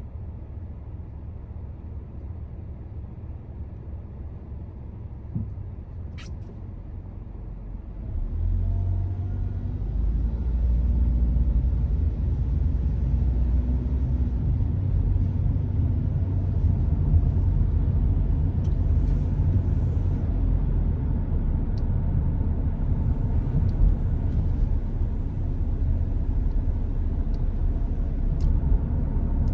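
Car on the road: a steady low rumble of engine and tyres that grows clearly louder about eight seconds in, with a few faint clicks.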